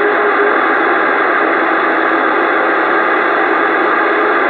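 CB radio static: a steady, loud hiss of noise from the radio's speaker on an open channel between transmissions. A faint steady tone sounds under it at first and fades out about half a second in.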